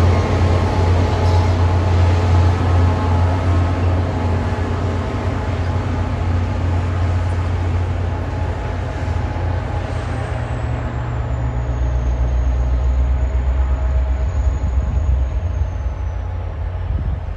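MBTA commuter rail train pulling away, pushed by its diesel locomotive: the engine's steady low drone over the train's rumble, dropping in pitch about ten seconds in and slowly growing fainter as it recedes. A faint high whine falls slowly in the second half.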